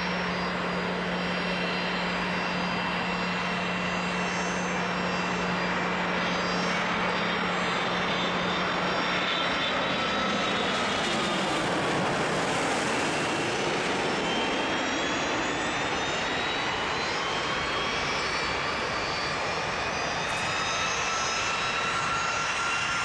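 Jet aircraft engines whining over a steady rush. About halfway through the noise swells and the whines fall in pitch as a jet passes, typical of landing traffic going by. Afterwards steady whines slowly rise in pitch.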